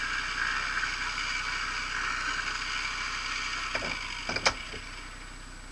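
Off-road vehicle's engine idling steadily, with a few sharp knocks about two thirds of the way in, the last one the loudest.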